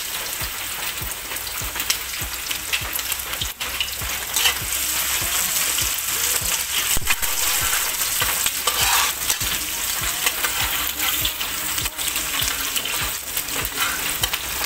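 Sliced garlic and shallots sizzling in hot oil in a wok, with a metal spatula scraping and clicking against the pan as they are stirred.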